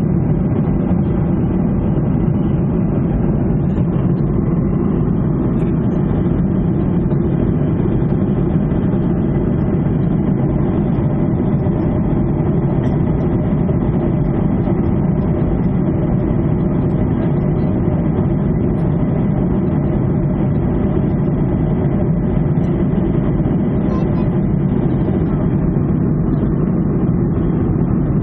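Steady jet engine noise heard inside the cabin of a Ryanair Boeing 737, an even low rumble that does not change in level, with a faint steady whine on top.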